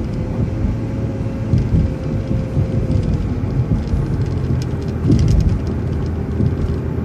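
Transit bus running along the road, heard from inside: a steady low engine and road rumble with a whine that drops slightly in pitch about three seconds in.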